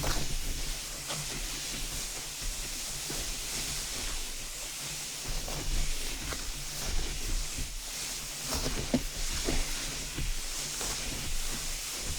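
Old snowboard dragged on a string across soft snow, heard from microphones mounted on the board itself: a steady sliding hiss of the base on the snow, with scattered small crunches that come thicker and louder in the middle and later part.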